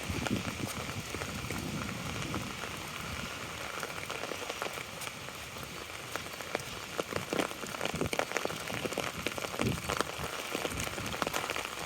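Rain falling on an umbrella held overhead, heard as a steady hiss dotted with many separate sharp drop hits.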